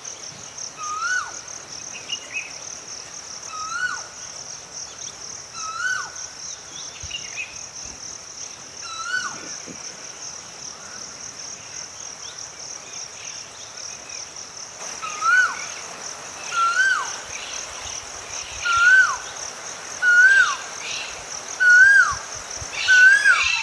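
Nature ambience: insects trill steadily and high, while a bird repeats a short whistled call that rises and then drops sharply, about every two seconds, louder and more often in the second half. Fainter chirps from other birds come in between.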